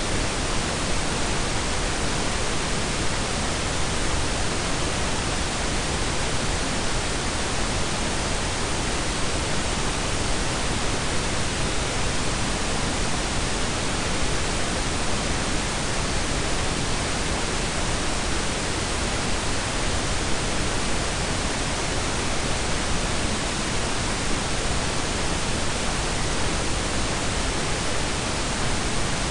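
Steady blend of pink and brown noise: an even, unchanging hiss with a deep low rumble and no tones or events.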